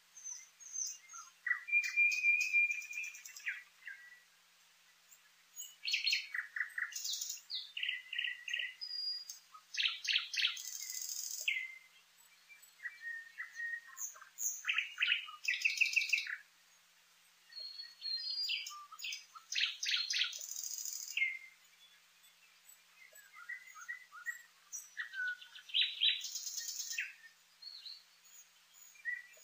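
A songbird singing: varied phrases of trills and quick high notes, each about two seconds long, repeated every few seconds with short pauses between.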